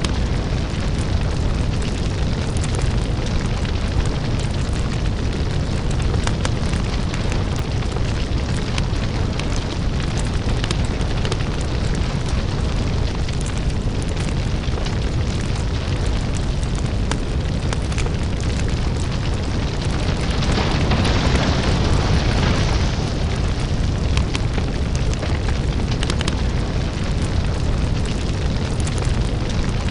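Crackling lava fire: a deep continuous rumble under dense crackling and popping. About two-thirds of the way through, a louder hiss swells for a couple of seconds, then eases back.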